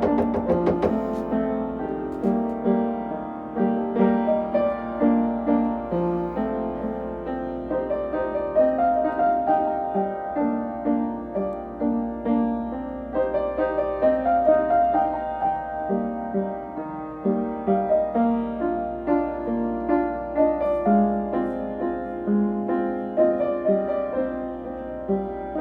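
Piano played as a continuous piece, a melody over chords, each note struck and ringing on, with a faint steady low hum beneath.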